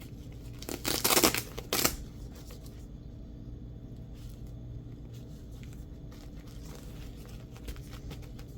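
Velcro patch pulled off its hook-and-loop panel: a ripping rasp about a second in, then a second short rip just after.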